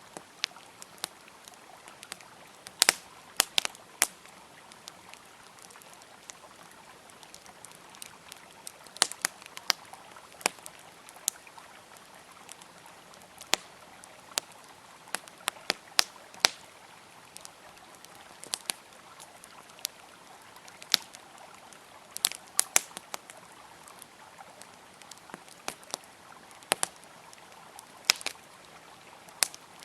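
Wood campfire crackling with sharp, irregular pops, some much louder than others, over the steady rush of a flowing river.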